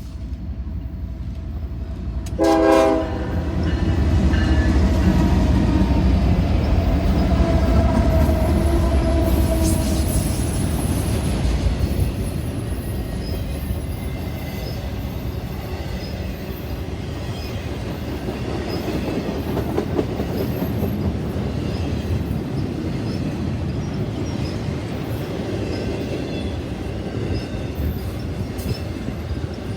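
A train sounds one short horn blast about two seconds in, then rumbles past, heaviest over the next several seconds. The cars then keep rolling by with a steady noise and clickety-clack from the wheels.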